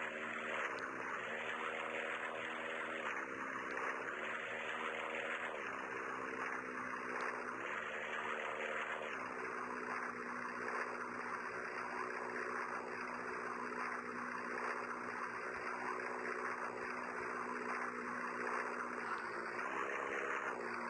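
A motor or engine running steadily under a strong hiss, its pitch stepping down and back up several times in the first nine seconds, then holding.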